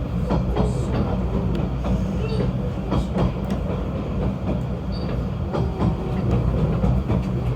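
Snowdon Mountain Railway rack train running: a steady low drone with scattered clicks and knocks.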